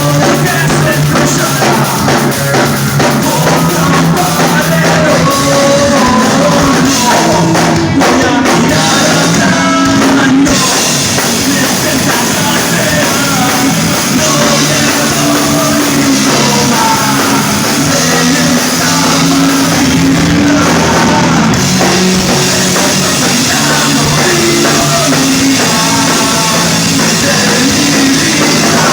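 A rock band playing live, loud and steady, with a drum kit and a singer's voice over the instruments.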